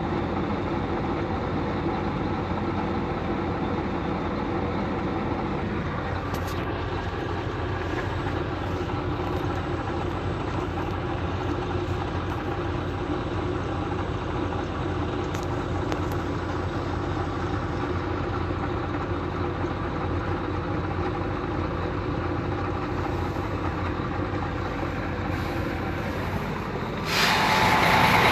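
A vehicle engine running steadily. Near the end a louder, even hiss suddenly joins in.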